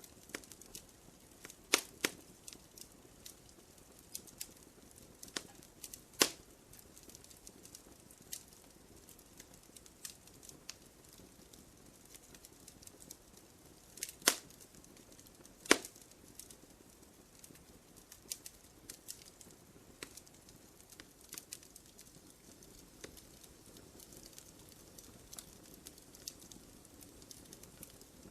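Wood fire crackling in a fireplace: a soft hiss with irregular small snaps and a few louder pops, about two seconds in, around six seconds, and twice in the second half.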